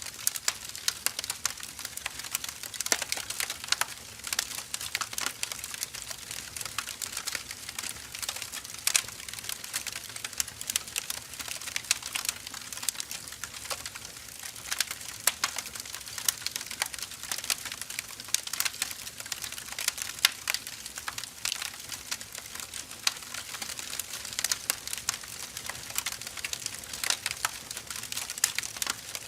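Firewood burning: a steady stream of irregular crackles and small pops from the logs over a faint hiss.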